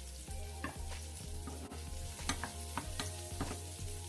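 Sliced shallots and garlic sizzling in oil in a non-stick wok. A wooden spatula clicks and scrapes against the pan several times a second as it stirs them.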